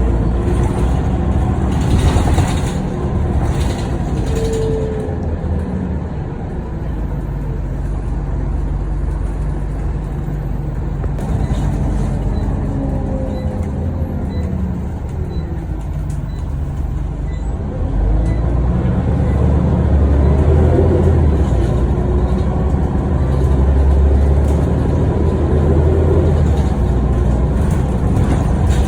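Scania OmniCity bus's diesel engine heard from inside the bus while under way: it eases off in the middle, then pulls harder and louder from about two-thirds of the way in. Faint regular ticking can be heard midway.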